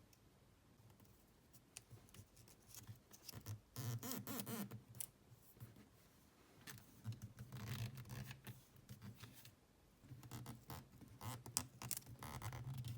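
Irregular scratching, scraping and clicking of hand work on small parts, coming in clusters with short pauses between them.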